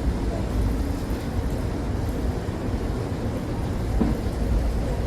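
Wind blowing against the microphone: a continuous low rumble that swells and eases with the gusts.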